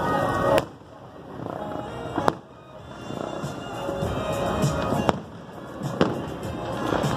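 Aerial fireworks shells bursting, about five sharp bangs a second or two apart, over continuous music.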